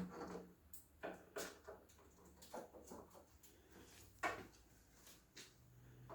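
Birds moving about on and inside a microwave oven: a string of faint, short taps, clicks and scrapes from claws and beaks on the oven.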